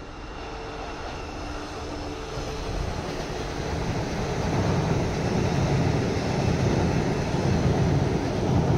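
JR 185 series electric train running onto a steel truss railway bridge. Its rumble grows louder over the first five seconds or so, then holds steady.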